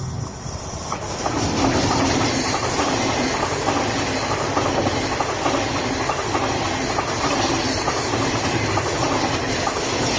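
A train passing on the track, its noise building over the first second or so and then staying loud and steady.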